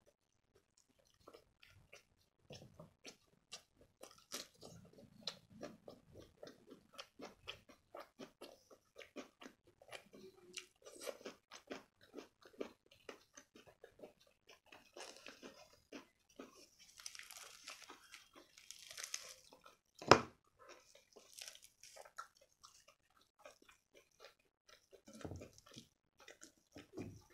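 Close-miked chewing and wet mouth sounds of eating palak paneer, rice and flaky lachha paratha by hand, with many small clicks and soft crunches. Partway through comes a rustling stretch, the sound of the paratha being torn apart, and about two-thirds in there is one sharp knock.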